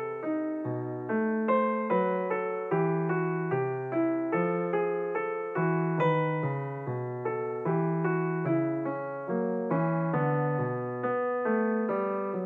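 Background piano music: a steady run of struck notes, about two or three a second, each fading out before the next.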